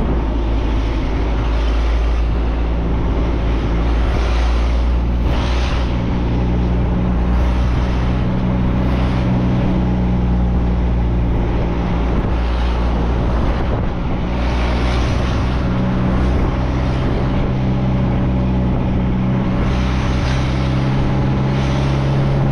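Truck engine droning steadily on the move, with road and wind noise that swells now and then.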